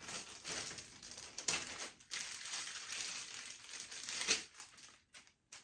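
Packaging rustling and crinkling as it is handled, with scattered sharp clicks, dying away near the end.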